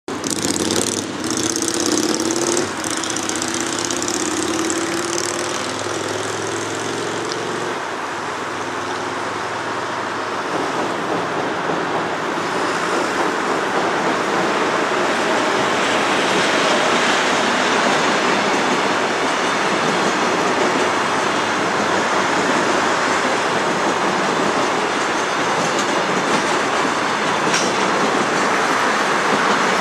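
JR Freight container train, hauled by an EF81 electric locomotive, crossing a steel arch railway bridge: a steady rumble and clatter of wheels on the steel structure that grows louder as the wagons pass.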